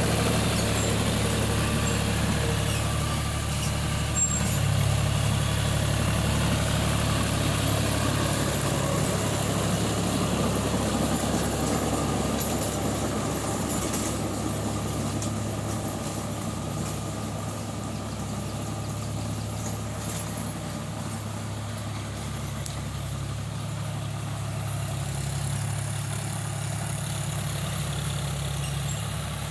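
Tractor engine running steadily with a low, even hum, easing slightly quieter midway.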